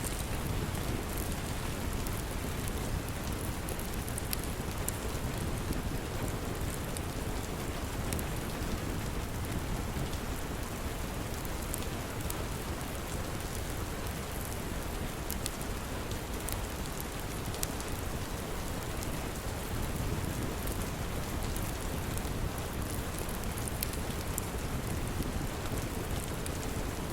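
Steady rain falling without a break, with scattered sharp crackles and pops from a wood fire.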